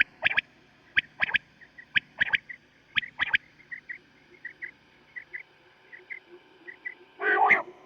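Common quail calls: sharp three-note phrases about once a second, then quieter short notes, then a louder burst of calls near the end.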